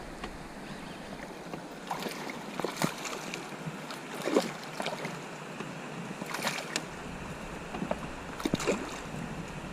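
Canoe on moving water: a steady wash of wind and water, broken by a few short splashes and knocks spread over the seconds.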